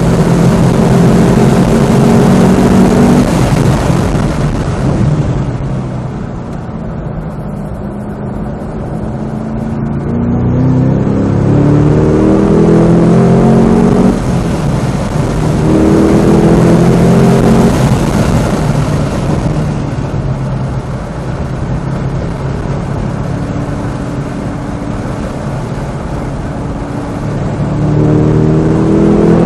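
Cadillac CT5-V Blackwing's supercharged 6.2-litre V8 on track, pulling hard with its pitch climbing through the revs. It goes quieter off throttle in between, about a third of the way in and again later, before climbing again near the end.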